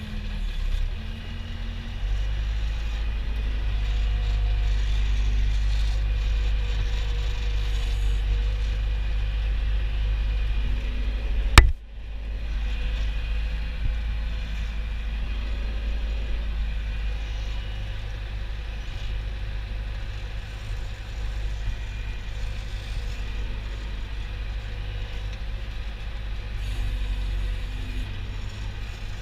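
A vehicle engine running steadily as a low rumble, with one sharp knock about eleven and a half seconds in.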